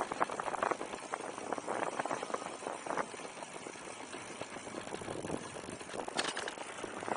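Mate-X electric fat-tire bike on the move: irregular rattling and clicking over the ride, busiest at the start and again about six seconds in, over a steady rush of wind on the microphone.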